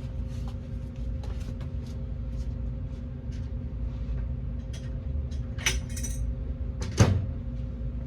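Hand tools and metal suspension hardware clicking and clinking during a rear shock install, with a sharp metallic knock about seven seconds in, over a steady background hum.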